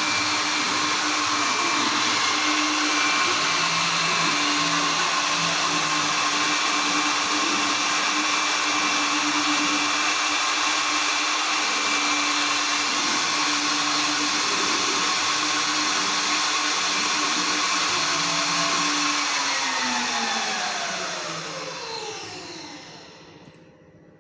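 Mini CNC router's spindle motor running at a steady high speed with a whine, then switched off about 19 seconds in and spinning down, its pitch falling over about four seconds until it stops.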